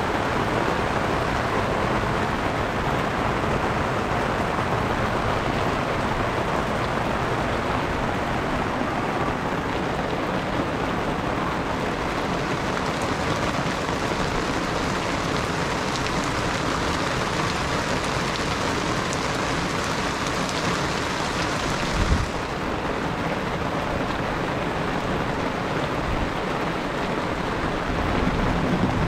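Steady rain falling on the street, an even hiss with no break. A brief low thump comes about three-quarters of the way through.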